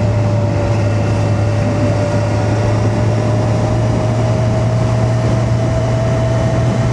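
Kawasaki Z900's inline-four engine running at a steady cruise on the highway, a constant drone with a steady whine on top and a rush of noise over it.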